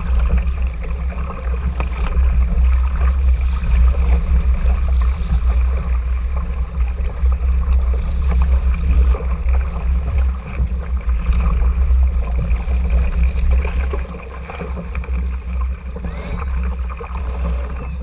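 An RS Tera sailing dinghy under way: a loud, steady low rumble of wind on the GoPro's microphone, with water rushing along the hull.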